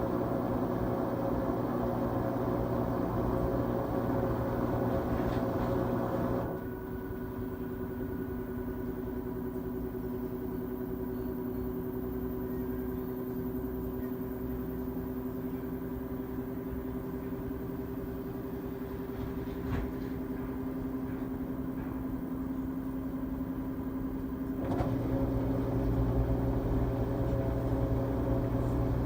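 LG Tromm WD-CR101C front-loading drum washing machine running its quick-wash cycle: a steady machine hum with fixed tones. It falls to a quieter hum about six seconds in and grows louder again near the end.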